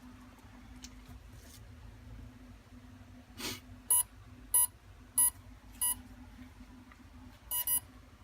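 Brushless motor ESC start-up tones as it powers up and arms: four evenly spaced beeps, then a quick double beep near the end. A single thump comes just before the beeps, over a faint steady hum.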